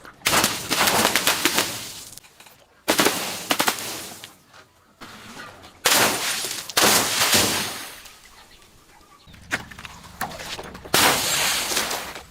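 Glass being crushed, crunching and shattering in four loud bursts, each a second or two long and full of sharp cracks.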